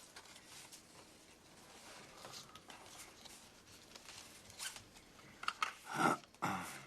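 Soft rustling and small clicks of playing cards being handled at a table, with two louder short sounds about six seconds in.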